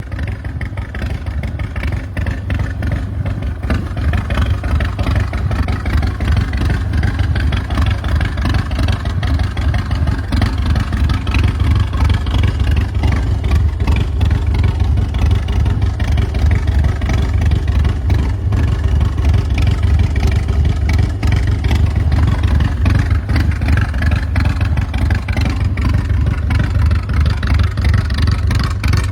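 The 2007 American IronHorse LSC's 117 cubic inch S&S V-twin running loud and steady through its Vance & Hines exhaust, a continuous low pulsing that grows slightly louder over the first few seconds.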